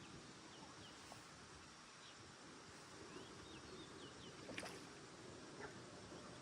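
Near silence: faint outdoor background with a few faint, short high chirps scattered through it and a single soft click about four and a half seconds in.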